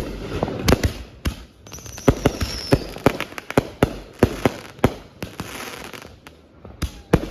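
Fireworks going off: an irregular run of sharp bangs and pops, with a faint falling whistle about two seconds in.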